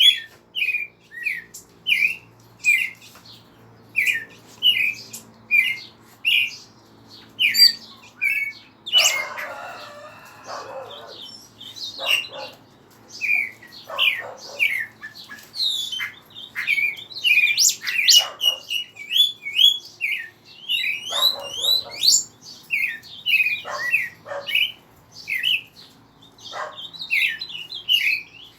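Pet birds chirping and singing: a short chirp repeated about once a second for the first several seconds, then a harsher, noisier burst around nine seconds in, and thicker overlapping calls from several birds later on.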